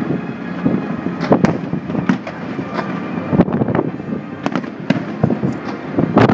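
Fireworks display: aerial shells bursting in a rapid string of bangs and crackles over a steady rumble, with a cluster of louder bangs near the end.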